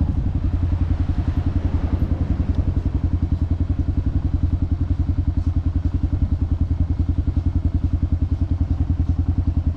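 Motorcycle engine running steadily with an even, rapid pulsing beat.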